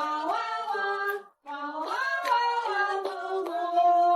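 A dog howling in two long, drawn-out, wavering tones with a short break between them.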